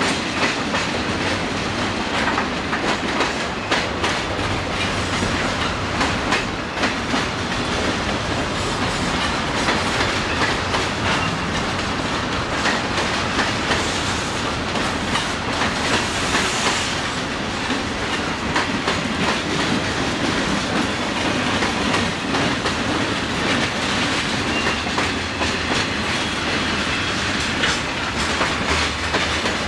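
Freight cars of a passing Conrail freight train rolling by, their wheels clicking steadily over the rail joints in a continuous clickety-clack. A brief high hiss comes about halfway through.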